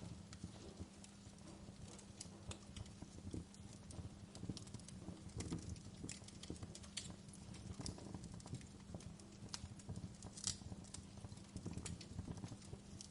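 Campfire burning with an irregular crackle of small sharp pops and snaps over a low steady rumble of flame.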